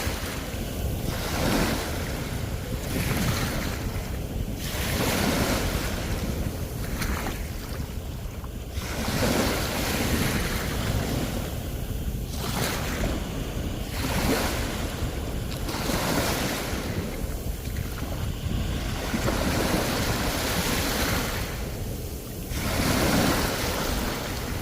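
Sea waves breaking and washing on the shore, the surf rising and falling in irregular surges every couple of seconds, with wind rumbling on the microphone.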